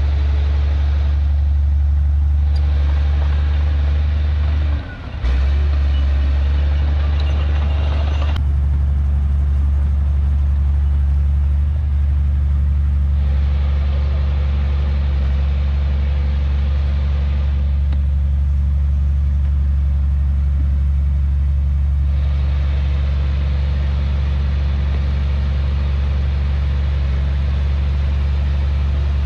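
Heavy diesel earthmoving machinery running steadily with a loud, low, constant drone. The sound cuts out briefly about five seconds in.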